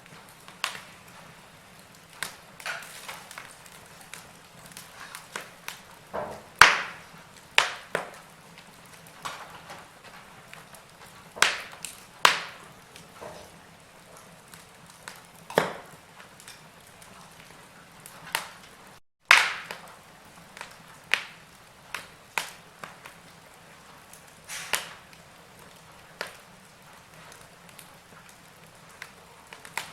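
Wood fire of burning logs crackling: irregular sharp pops and snaps over a faint hiss, the loudest snaps about 7, 12 and 19 seconds in. The sound cuts out for a moment just before the snap at 19 seconds.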